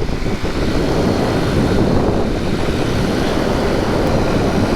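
Wind rushing over the microphone of a moving Honda C90 step-through, over its small four-stroke single-cylinder engine running steadily.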